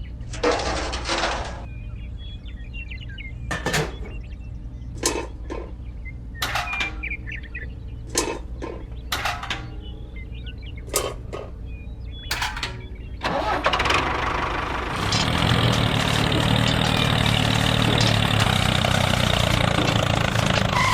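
A small motor running steadily with a low hum, with short sharp clicks now and then. From about 13 seconds in it gets louder and busier, and runs on that way to the end.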